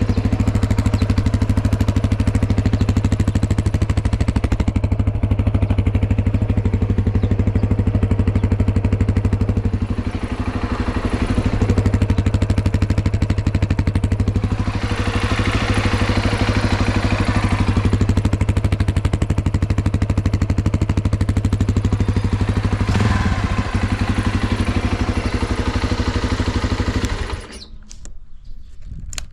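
Yamaha XT250T's air-cooled single-cylinder four-stroke engine idling steadily, then shut off a couple of seconds before the end. It runs without any abnormal noise, as the seller claims.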